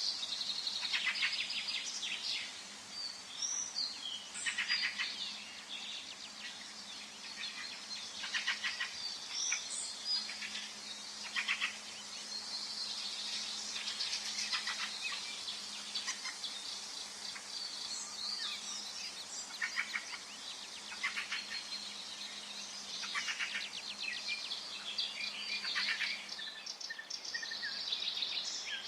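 Forest ambience with songbirds singing: short, rapid trills and chirps every second or two over a faint steady hiss.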